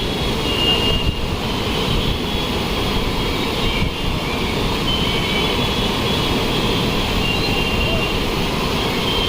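The Ganga in flood rushing past in a steady, loud roar of water, with a few faint high whistling tones now and then.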